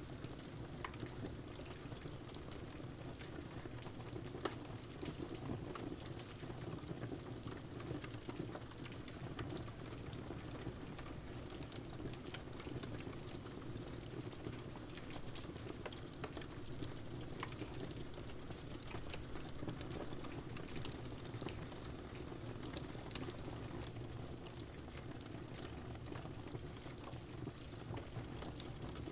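Wood fire crackling over a steady patter of rain, with scattered small pops and one sharper pop about four seconds in.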